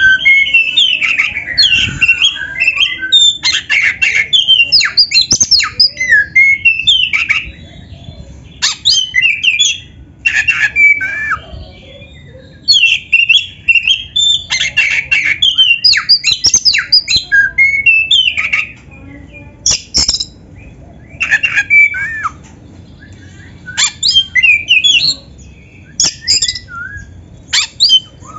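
Black-breasted oriental magpie-robin (kacer) singing a loud, rapid, varied song of whistles, chirps and harsh notes with canary-style phrases mixed in, delivered in bursts broken by short pauses.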